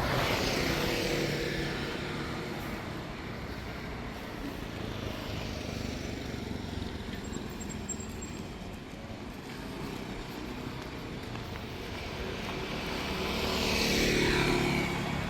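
Street traffic. A motor vehicle passes close at the very start, its engine pitch falling as it goes by, and another builds up and passes close near the end, over a steady background of traffic.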